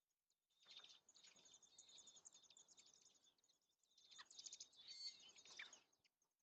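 American robins chirping faintly at their nest in two busy bouts, the first starting about half a second in and the second about four seconds in, each with a rough rustling noise under the chirps. Faint high chirps continue between the bouts.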